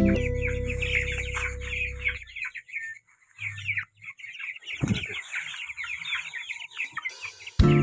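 A flock of young kampung chickens peeping continuously: a dense chorus of short, high, falling peeps. Background music plays over the first two seconds, stops, and comes back at the very end.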